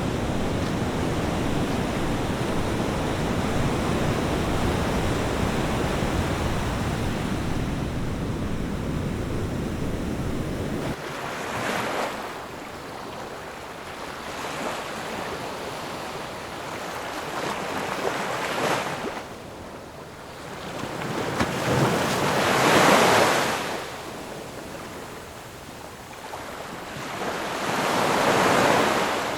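Sea waves breaking on a shore, each surge swelling and washing away every few seconds, with the loudest breaks about two-thirds of the way through and near the end. Before them, for the first third, there is a steady low rushing noise that stops abruptly.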